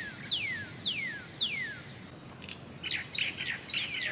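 High, bird-like whistled chirps, each sliding quickly downward, repeating about twice a second. They break off in the middle for a few short rattling clicks, then return near the end.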